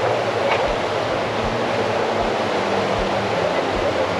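Steady rushing noise of wind on the microphone along a seafront, with a low steady hum under it and soft low thuds about twice a second.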